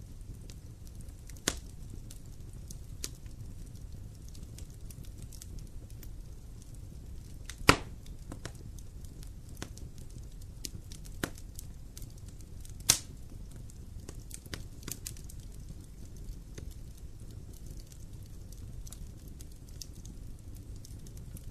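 Wood campfire burning: a low steady rumble with scattered crackles and a few loud, sharp pops, the loudest about eight seconds in.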